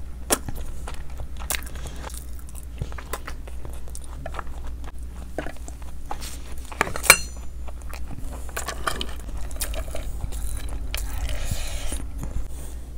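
Close-miked eating by hand: wet chewing and biting on mouthfuls of biryani and curry, with many small mouth clicks. A single sharp ringing clink about seven seconds in, and a rustling slide of rice being tipped off a plate near the end.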